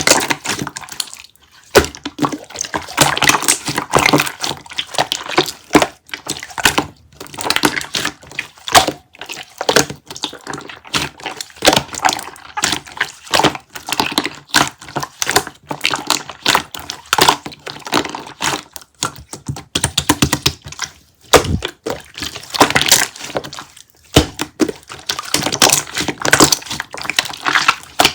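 Hardened kiwi jelly being pressed and worked, giving dense, irregular crackling and clicking with small wet pops, pausing briefly a few times.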